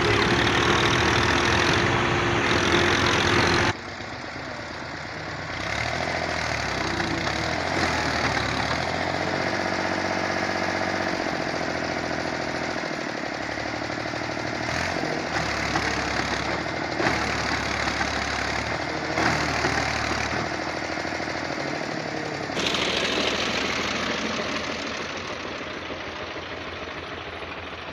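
Diesel tractor engine working hard against a heavy load, its clattering note repeatedly rising and falling as the revs are pushed up and eased off. The sound changes abruptly about four seconds in and gets louder again near the end.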